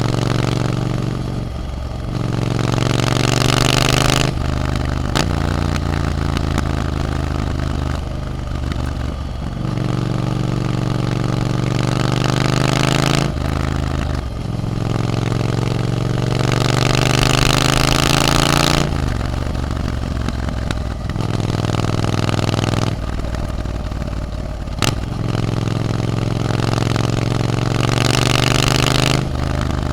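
Triumph Scrambler 900's 900 cc parallel-twin engine through an Arrow exhaust, pulling through the gears. The note climbs in pitch for a few seconds, then drops at each upshift, about five times, with a couple of sharp clicks in between.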